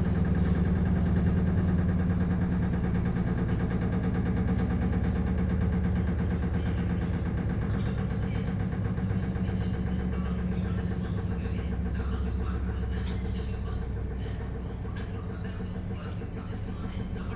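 SHARP washing machine running: a steady low hum and rumble with a few faint clicks, growing gradually quieter.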